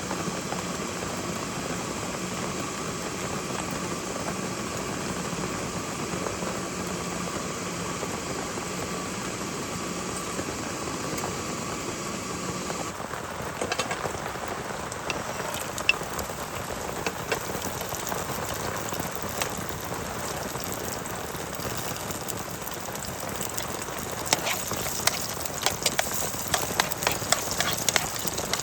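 Heavy rain falling as a steady hiss. About halfway through the sound changes, and separate sharp drops start striking a surface, coming thicker near the end.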